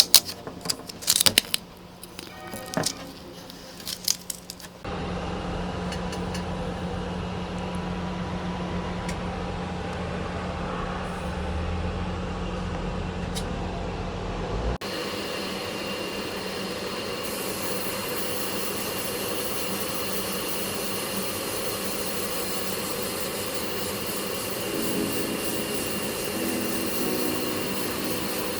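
A few sharp clicks and knocks, then a steady low machine hum for about ten seconds. Then, cutting in suddenly, a steady spray hiss of paint being sprayed onto the bicycle frame.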